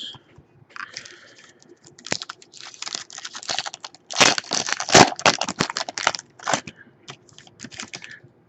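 Foil wrapper of a trading card pack crinkling and tearing as it is opened and handled, a dense irregular crackle that is loudest about halfway through.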